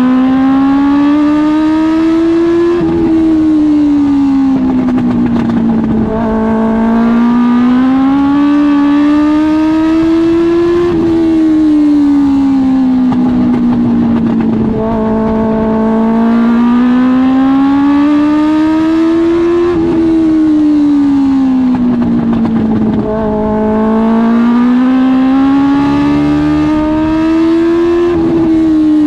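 Dwarf car's Suzuki GSX-R1000 inline-four motorcycle engine racing around a short oval. The revs climb steadily, then drop sharply as the throttle comes off, four times in a repeating cycle about every eight to nine seconds. The driver is held to about half throttle by problems with the car.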